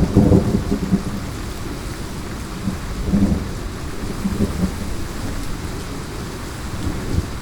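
Steady heavy rain with rolling thunder. The thunder rumbles loudest at the start and swells again about three seconds in, then fainter near the end.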